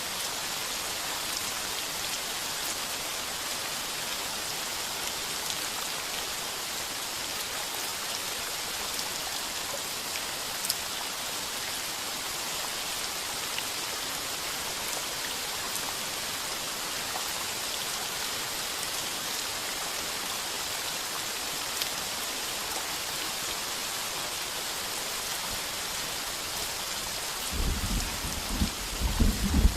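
Heavy rain falling on a tin roof: a steady hiss with the odd louder drop. Near the end a low rumble of thunder rolls in.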